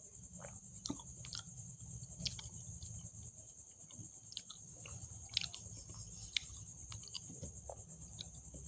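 A person chewing food close to the microphone, with scattered wet mouth clicks, over a steady high-pitched whine.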